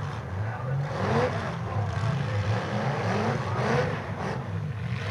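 Demolition derby car engines revving up and down as the cars push against each other, the pitch rising and falling over and over.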